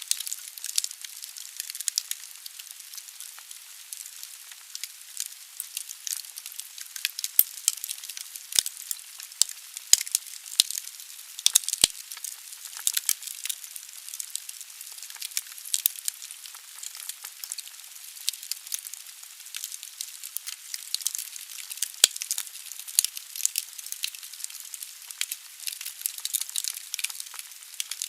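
Wood fire burning in a fireplace: logs crackling with a steady hiss, sharp irregular pops throughout, a few louder snaps.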